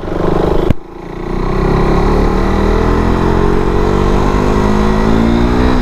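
KTM RC 390's single-cylinder engine accelerating hard, its pitch climbing steadily through a long pull in one gear. A sharp click and a brief dip in the engine sound come under a second in.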